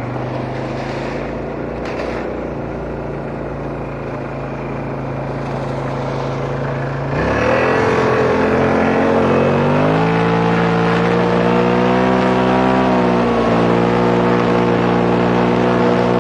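Car engine running at a steady idle, then revved up about halfway through and held at raised revs, stepping a little higher a few seconds later before settling.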